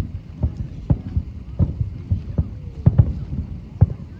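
Fireworks shells bursting in quick succession: an irregular run of deep booms, about three or four a second.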